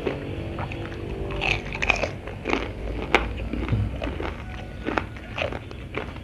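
Crispy breaded fried chicken being bitten and chewed close to the microphone: irregular crunches of the fried coating, with wet chewing between them.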